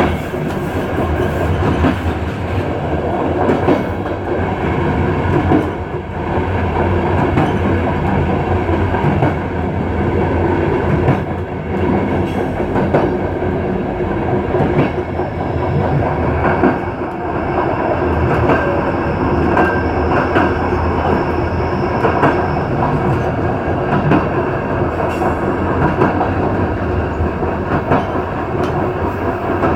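Passenger train running along the track: a steady rumble of wheels on rail with the clickety-clack of rail joints. A faint high wheel squeal is heard for several seconds midway.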